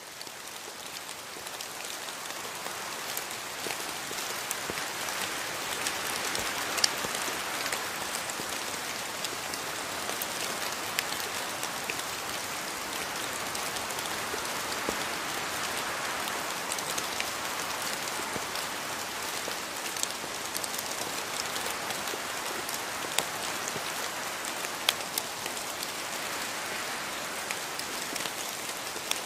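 Steady rain falling on foliage, with a constant hiss and scattered sharper drips. It fades in at the start and then holds even.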